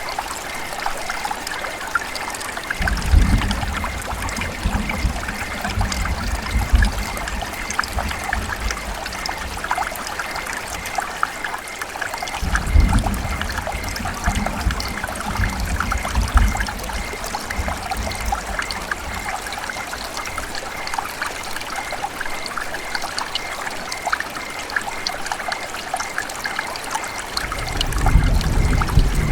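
River water running and trickling steadily, with a low rumble that swells in about three seconds in, again about twelve seconds in, and near the end.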